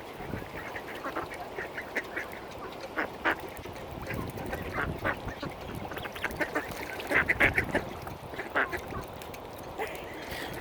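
Mallard ducks quacking in short, repeated calls, several overlapping about seven seconds in.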